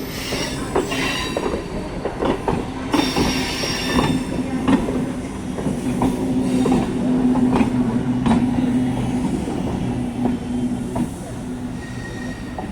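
MEMU electric passenger train rolling into the station, its wheels clicking over rail joints, with a steady low hum and high-pitched wheel squeals, loudest about three seconds in.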